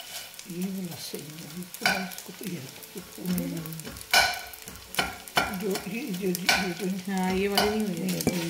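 Gond (edible gum) frying in desi ghee in a stainless steel pot, sizzling as the pieces puff up. A metal slotted spoon stirs and scrapes through them, clicking sharply against the pot about five times.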